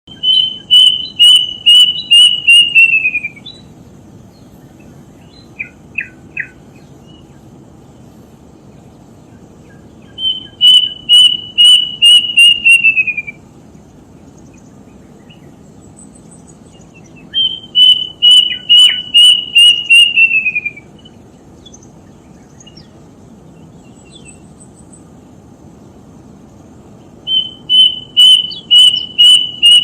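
A songbird singing four times: each phrase is a quick run of repeated clear notes on one pitch, lasting about three seconds and dropping in pitch at the end. A few short faint notes come between the first and second phrases.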